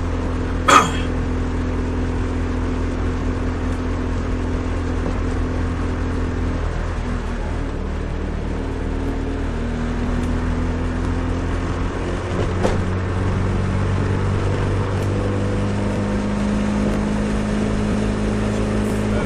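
Nissan Micra 1.3 with a custom exhaust running at steady engine speed, giving a low, steady exhaust drone that the owner finds annoying. The pitch shifts slightly about two-thirds of the way through, and there is a sharp click about a second in and another a little past halfway.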